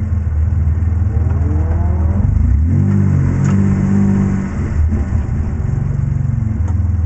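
BMW E30 drift car's engine heard from inside the cabin, revving up about two seconds in and held high for a couple of seconds, then dropping back a little past halfway and running steadily again.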